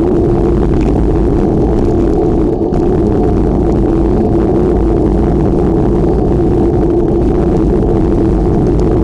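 Steady, loud rumbling noise with no break, most likely wind buffeting the microphone while riding a bicycle.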